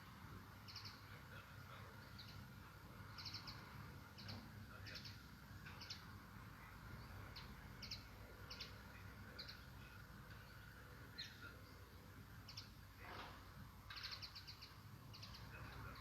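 Small birds chirping faintly, with short high chirps coming irregularly, over a low steady background rumble.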